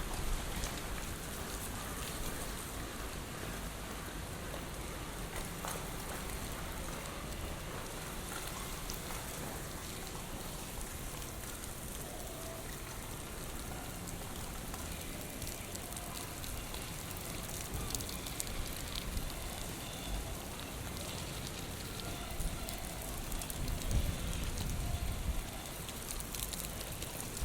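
Steady typhoon rain hissing on hard surfaces, with strong wind gusting against the microphone as a low rumble at the start and again about three quarters of the way in.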